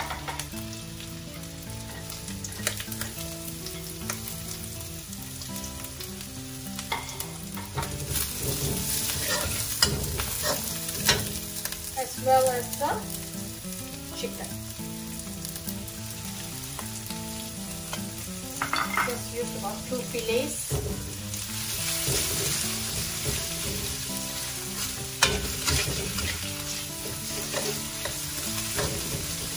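Garlic and sliced shallots sizzling in hot oil in a wok while a metal spatula stirs and scrapes them, with occasional sharp clicks of the spatula against the wok. The sizzle gets fuller about two-thirds of the way through, as sliced raw chicken goes into the oil.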